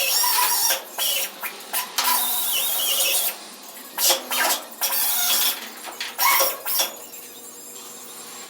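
Short bursts of grinding on sheet metal, with a squealing ring in some passes.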